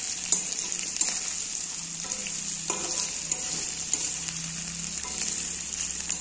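Pieces of spiced pig ear sizzling steadily as they fry in oil in a pan, with scattered clicks and scrapes from a spatula stirring them.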